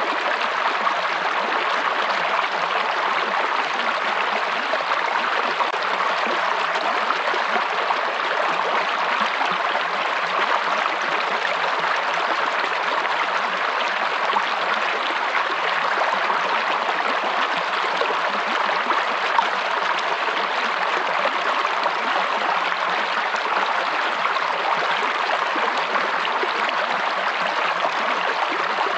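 A forest stream running steadily, its water rushing evenly without pause.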